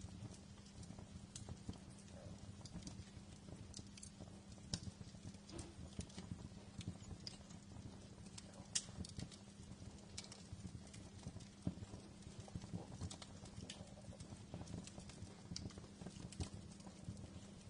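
Wood fire crackling in a fireplace: faint, irregular snaps and pops over a steady low hum.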